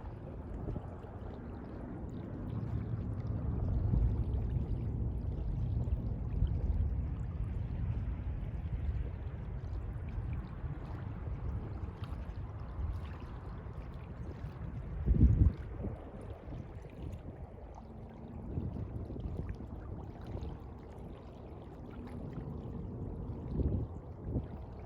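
Sea water lapping and sloshing in a low, uneven wash that swells and eases, with one louder low thump about fifteen seconds in and a smaller one near the end.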